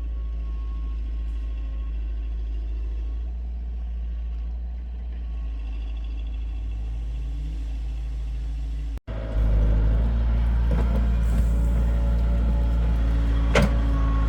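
Heavy vehicle engine running steadily. About nine seconds in, the sound breaks off for an instant and comes back louder, with a few sharp knocks and clatter over the engine.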